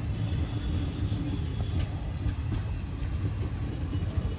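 Indian Railways passenger coaches rolling past: a steady low rumble of steel wheels on the rails, with a few faint clicks as wheels cross rail joints.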